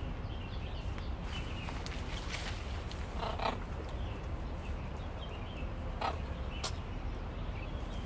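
Outdoor bird ambience: faint, short chirps from small birds repeat over a low steady rumble, with a few brief sharp sounds about three and a half and six seconds in.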